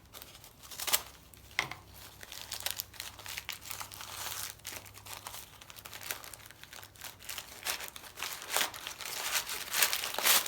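Packaging being torn and crumpled by hand: irregular crinkling and ripping that grows busier and louder toward the end.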